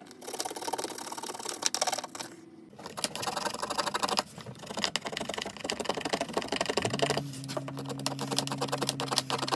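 Rapid scratching and clicking of hand-tool work, with a short lull a little after two seconds; a low steady hum comes in about seven seconds in.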